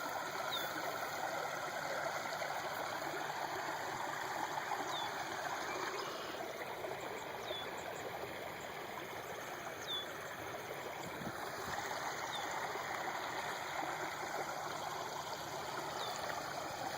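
Water flowing steadily into a pond, a continuous trickling rush like a small stream. A faint short high chirp repeats every two to three seconds over it.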